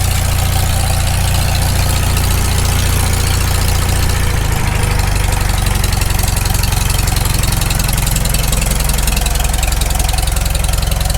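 Freshly rebuilt four-cylinder engine of a Farmall Super M tractor running steadily while still cold, on its initial carburettor settings, with no knocking heard. About four and a half seconds in, its speed drops a little as it settles toward idle.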